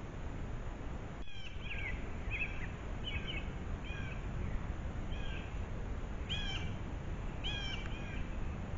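A bird calling repeatedly, short arched calls about once a second, over the steady hiss of a trail camera's microphone, with a brief dropout about a second in.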